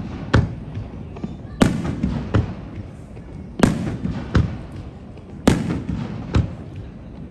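Aerial fireworks shells bursting: a series of about seven sharp bangs, roughly one a second, each trailing off in a rumbling echo.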